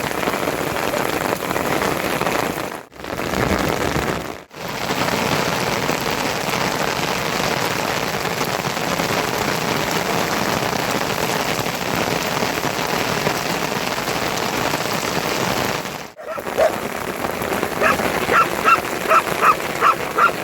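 Heavy monsoon rain falling steadily, breaking off briefly three times. Near the end, an animal starts calling repeatedly over the rain, about two calls a second.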